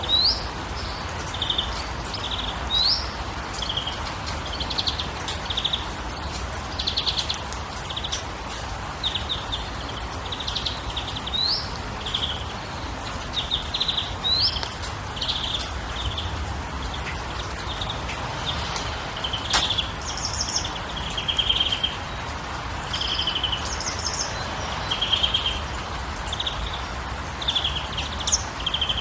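Birds chirping and calling throughout: many short chirps, quick trills and brief rising whistles, over a steady low background rumble and hiss.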